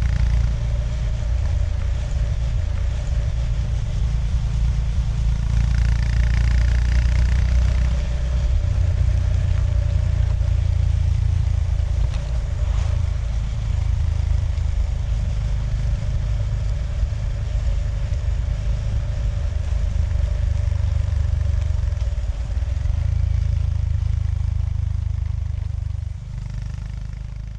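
Honda GB350S's single-cylinder engine running as the motorcycle rides along, fading out near the end.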